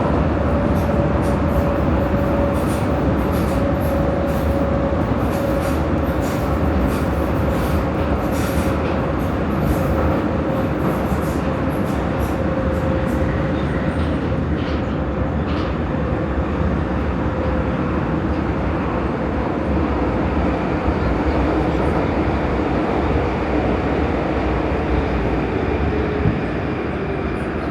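Prague metro line A train running through the tunnel: a steady rumble of wheels on rail with a motor whine that slowly falls in pitch as the train slows toward the next station, and scattered sharp clicks in the first half.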